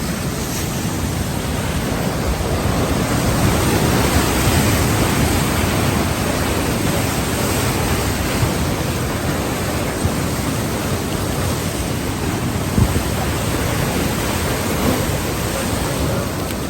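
Fast-flowing floodwater rushing steadily, a full, even noise that swells slightly a few seconds in. One brief knock sounds late on.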